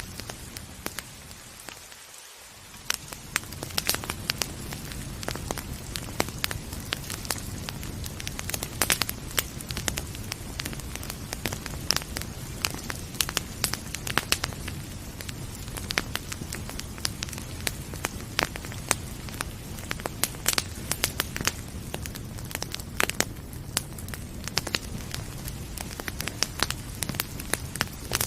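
Wood fire crackling with frequent sharp pops over a steady hiss of rain. The sound dips briefly about two seconds in.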